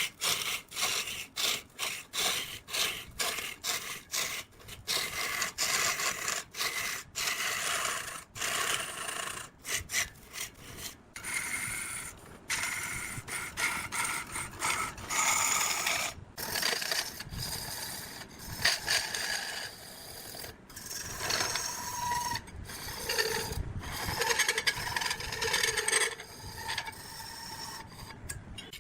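A hand tool scraping wood in quick repeated strokes, about two a second, turning to denser scraping with a few dull knocks in the second half.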